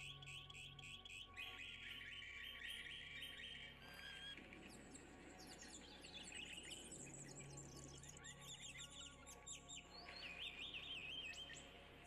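Faint songbirds chirping: a quick run of repeated high notes for the first few seconds, scattered rapid chirps after, and a warbling trill about ten seconds in, over faint steady background tones.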